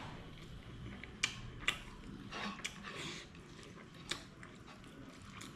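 A person chewing and eating, with wet mouth sounds and a few sharp clicks or smacks.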